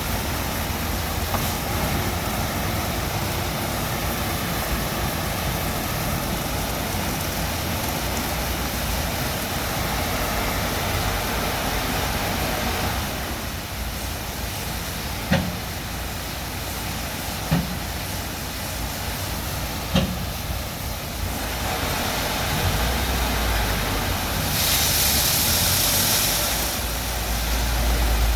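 WashTec SoftCare Pro Classic rollover car wash working over a car, a steady mechanical wash noise. It has three short knocks about two seconds apart midway and a loud hiss for a couple of seconds near the end, over a deepening low rumble.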